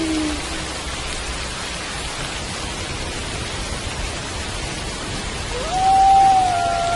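Steady rain with a wolf howling: a long howl slides down and fades out in the first half-second, and about five and a half seconds in another howl rises quickly and holds one level pitch.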